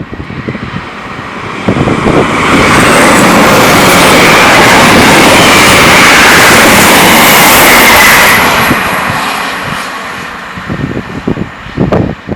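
A train passing through at speed: a loud rushing noise that builds over about two seconds, holds for about six seconds, then fades away.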